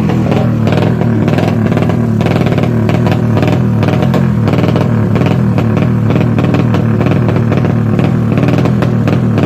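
Tuned Yamaha Jupiter MX drag-racing motorcycle engine running loud and steady at high revs, a continuous buzzing exhaust note.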